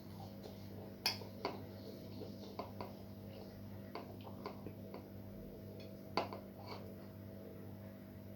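Small clicks and wet mouth smacks of someone chewing food close to the microphone, the sharpest about a second in and about six seconds in, over a steady electrical hum.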